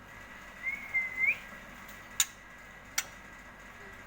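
A single short whistled note that wavers and then rises at the end, followed by two sharp clicks spaced under a second apart.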